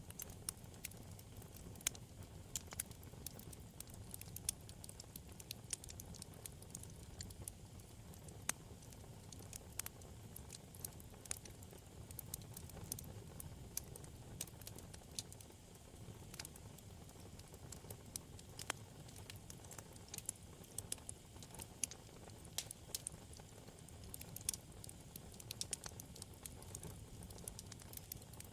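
Wood fire burning in a fireplace, crackling with many small irregular pops over a low steady rumble of flame.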